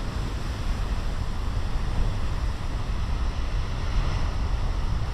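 Big ocean waves breaking in a steady surf wash, with wind rumbling on the microphone; the surf swells a little about three to four seconds in.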